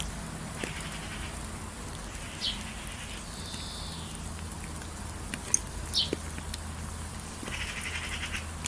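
Birds calling in rural ambience: a few short, high, falling chirps, and two longer buzzy, pulsing calls, one about a second in and one near the end, over a steady low hum.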